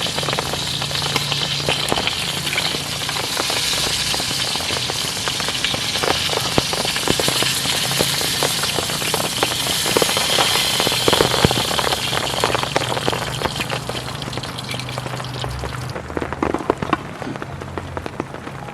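Heavy rain falling on tent fabric: a dense, steady hiss full of sharp drop hits, thinning out somewhat near the end.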